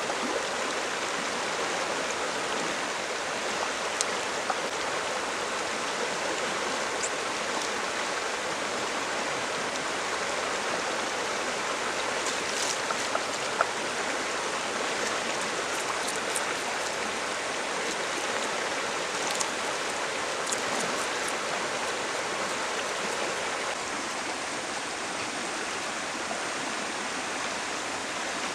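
A stream running over rocks, a steady rushing of water, with a few light clicks and taps scattered through, the sharpest about halfway.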